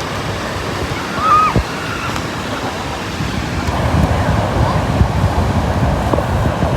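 Ocean surf breaking on a beach, growing louder about halfway through, with wind buffeting the microphone.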